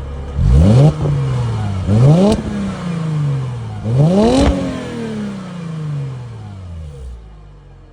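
Mercedes SLK280's naturally aspirated V6 engine revved three times, each blip rising sharply in pitch and then falling slowly back. After the third it settles to idle near the end.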